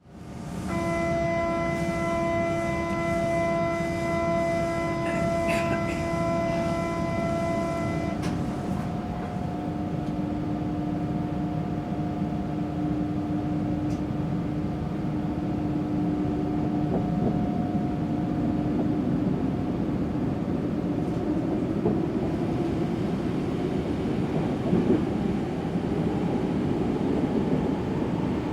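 Metro train running, opening with a steady pitched tone with several overtones that cuts off about eight seconds in, a lower tone holding on for some seconds more, then the running rumble growing louder near the end.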